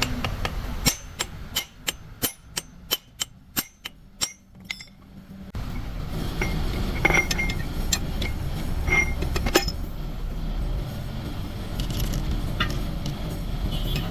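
Light metallic clinks and taps from gearbox parts and tools being handled. First comes a quick run of about a dozen sharp taps, roughly three a second. Then a steady low rumble with an occasional clink.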